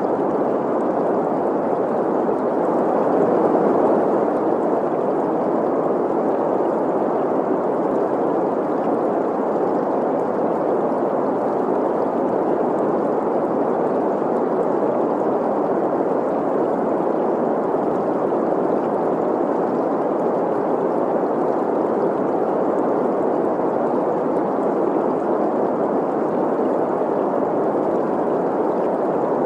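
Synthetic green noise, a steady hiss centred in the middle of the range, blended with a flowing stream, with only a slight swell about three seconds in.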